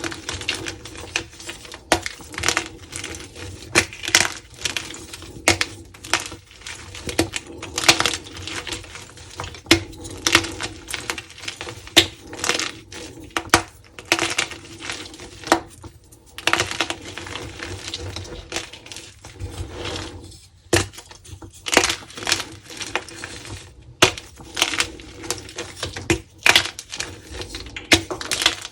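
Dyed crunchy gym chalk being crumbled and crushed by hand: crisp crunching and crackling, in quick irregular bursts with a sharper crack every second or so.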